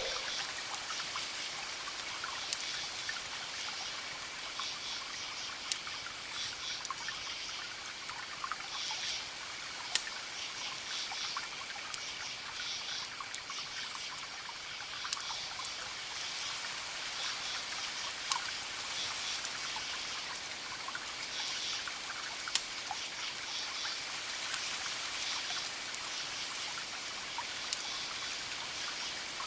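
Campfire crackling with scattered sharp pops, over crickets chirping in repeated pulses and a steady high insect trill, with a soft wash of distant ocean waves beneath.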